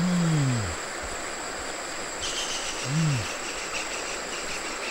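Crickets and other insects: a steady high whine, joined about two seconds in by a rhythmic chirping of several pulses a second. Two short low calls that swoop down in pitch, one at the start and one about three seconds in, are the loudest sounds.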